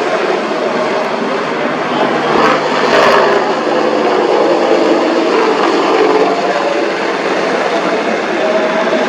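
AH-64E Apache attack helicopter flying, a loud steady rush of engine and rotor noise with shifting whine tones, and a couple of sharp cracks about two and a half to three seconds in.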